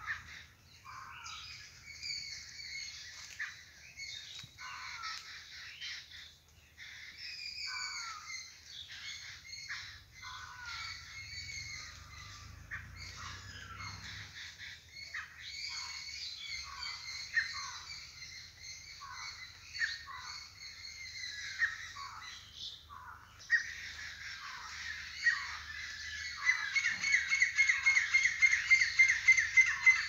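Birds calling, a string of short chirps and squawks, many sweeping downward in pitch. Near the end a louder, rapid run of repeated notes sets in.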